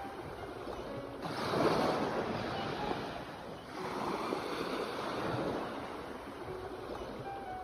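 Sea waves washing onto the shore, swelling twice: once about a second in and again near the middle.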